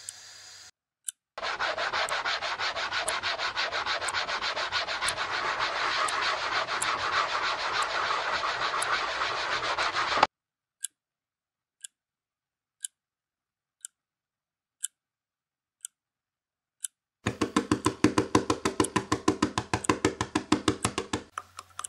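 Hands rubbing skin hard and fast for about nine seconds, a dense rasping of rapid strokes. It stops suddenly, leaving only a sharp tick once a second. Near the end, fingernails scratch rapidly at skin for about four seconds.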